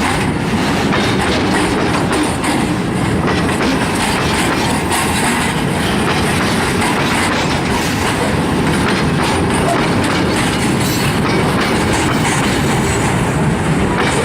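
Loaded freight train wagons rolling steadily past over a level crossing, with a continuous clatter of wheels on damaged, flexing rails.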